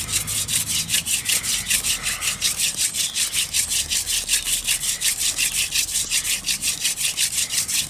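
Hand drill for fire by friction: a wooden spindle spun back and forth between the palms, grinding under downward pressure in the socket of a wooden hearth board. It makes a fast, even rhythm of rasping strokes, several a second.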